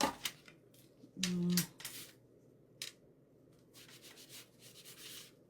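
A brush being stroked over bare wood to apply stain: quick scratchy strokes, several a second, starting about four seconds in. Before that, a knock, a short low hum and a single click.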